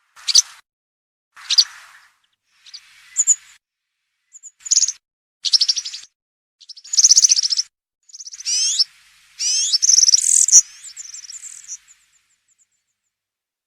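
European serin singing: a string of short, high, fast jingling trills and glides with brief pauses between them, stopping about twelve seconds in.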